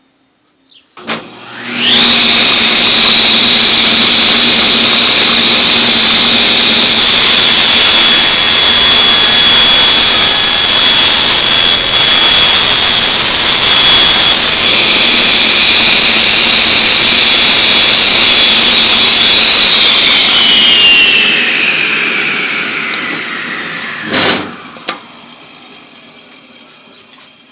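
Table saw switched on about a second in, coming up to speed within a second and running loudly and steadily with a high whine. Near the end it is switched off: the whine falls in pitch and the level fades as the blade coasts down, with one sharp knock along the way.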